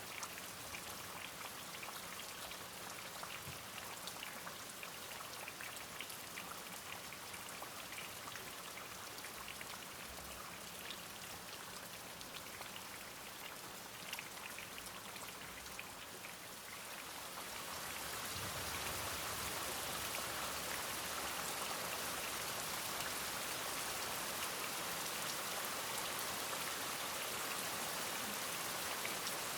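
Steady rain with distinct drops pattering on a surface; about 17 seconds in, the rain swells into a louder, denser, even hiss that holds to the end.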